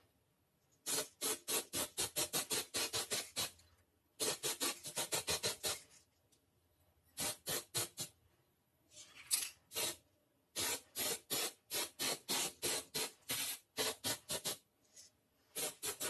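Rapid back-and-forth hand strokes of an abrasive on a rifle part, about four or five rasping strokes a second, in several runs separated by short pauses.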